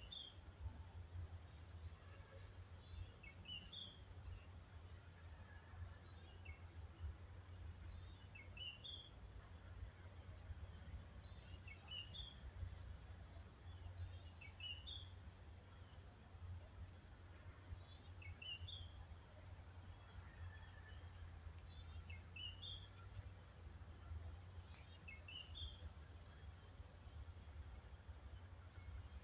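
Faint outdoor ambience. A bird repeats a short phrase of quick high notes about every three seconds over a steady, high insect trill that grows louder during the second half, with a low rumble underneath.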